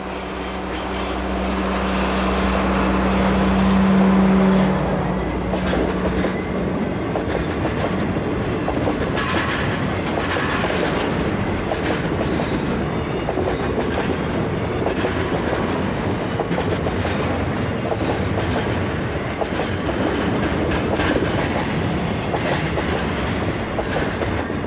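DD51 diesel-hydraulic locomotive passing close by, its engines running in a steady drone that swells and peaks about four seconds in, then falls away. A long train of tank wagons follows, rolling past with wheels clattering over the rail joints.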